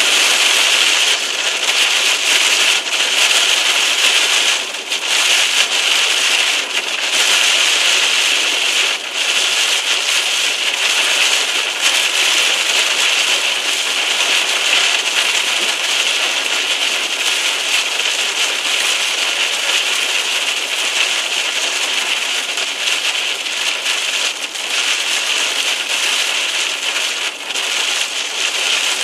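Heavy rain drumming on a moving car's roof and windscreen, heard from inside the car: a loud, dense, steady hiss.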